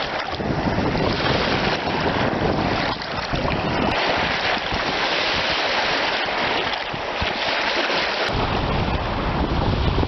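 Wind buffeting the microphone: a loud, steady rushing with a low rumble that comes and goes in gusts.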